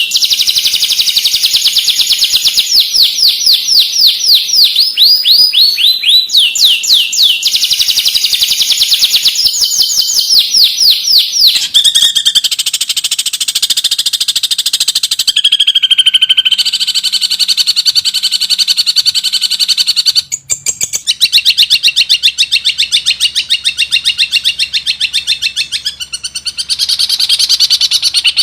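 Long-tailed shrike (cendet) song full of mimicked phrases: fast trills of rapid down-slurred notes, changing to a new phrase every few seconds with only brief breaks.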